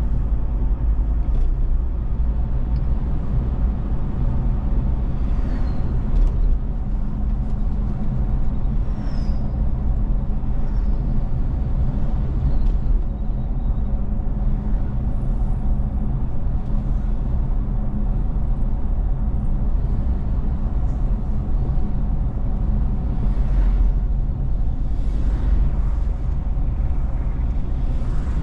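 Steady low rumble of a vehicle's engine and tyres while driving along a road. Other vehicles pass a few times, briefly louder.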